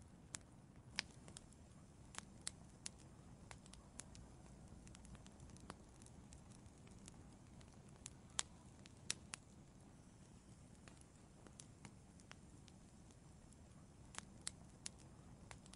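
Wood fire in an outdoor fireplace crackling: scattered sharp pops and snaps over a soft low rumble of burning, with a few louder pops about a second in, around eight to nine seconds in, and a cluster near the end.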